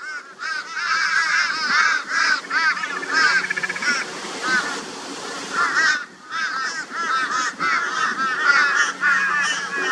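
A flock of crows calling raucously, many harsh cawing notes overlapping almost continuously, with a short lull about halfway through. The noise is the crows mobbing a barn owl.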